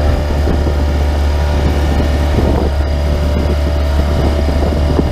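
Small boat's engine running steadily with a constant low drone.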